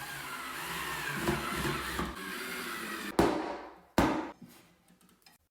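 A power drill/driver runs for about three seconds with a wavering pitch, driving pocket screws into the cabinet panels. It is followed by two sharp wooden knocks about a second apart.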